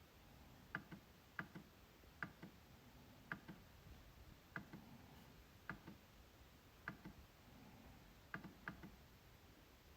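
MacBook trackpad being clicked: short, sharp, faint clicks, mostly in close pairs of press and release, coming about once a second at an uneven pace.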